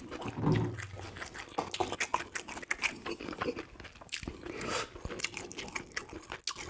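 Close-miked chewing with many small crunches, from a man eating grilled dried yellow croaker (gulbi) bones and all. About four seconds in, he takes a spoonful of soft tofu stew with a wet slurp and carries on chewing.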